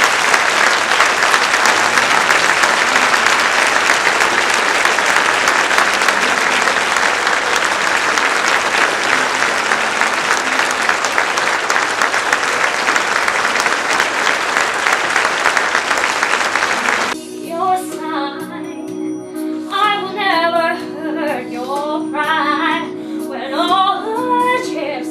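Audience applauding steadily. About seventeen seconds in it cuts off abruptly, and a female voice sings long held notes over a sustained musical accompaniment.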